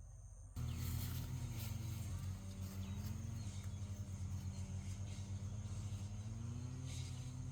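A small engine running, starting abruptly about half a second in, its pitch slowly rising and falling as the engine speeds up and slows down.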